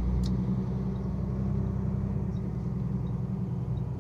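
Steady low rumble of a semi truck's engine and road noise heard from inside the cab while driving, with one sharp click about a quarter second in.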